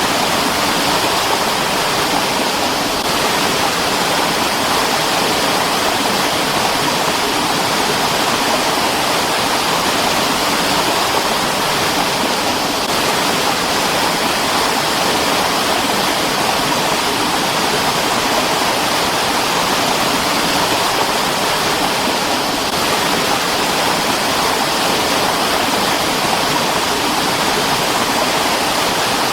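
Mountain stream rushing steadily over rocks, a constant even roar of water with no breaks.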